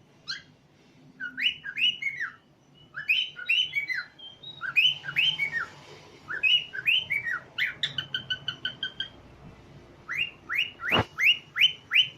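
Pet cockatiels whistling: phrases of short rising-and-falling whistled notes, a quick run of short repeated notes about eight seconds in, a sharp click about eleven seconds in, then a fast series of rising notes.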